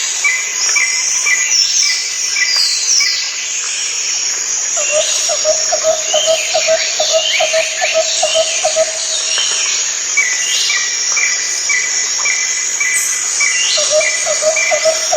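A chorus of many birds singing at once: dense, overlapping chirps, whistles and trills, with a rapid run of repeated lower chirps in two stretches, from about five to nine seconds in and again near the end.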